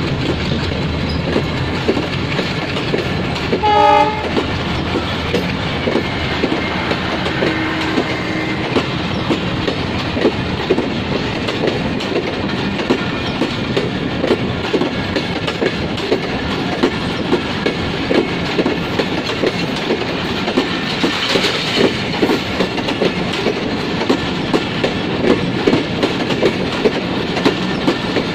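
LHB passenger coaches rolling past at speed: a steady rumble with the wheels clattering over the rail joints. A short train horn blast sounds about four seconds in.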